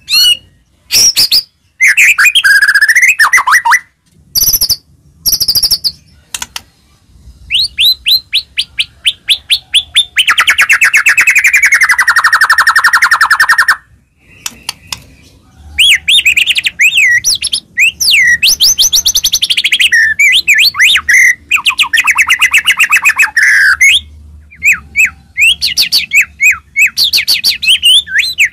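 White-rumped shama (murai batu) in loud full song: varied whistled phrases and sharp chirps. In the middle comes a long, fast trill that falls in pitch, with another fast trill later on.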